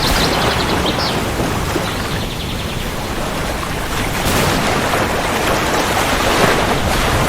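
Steady downpour of rain with a continuous low rumble of thunder, swelling a little in the second half.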